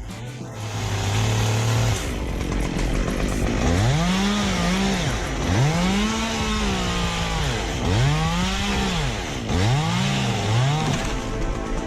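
Chainsaw engine idling, then revved up and down about five times from about four seconds in; each rev climbs, holds briefly and falls back, and the last two are quicker.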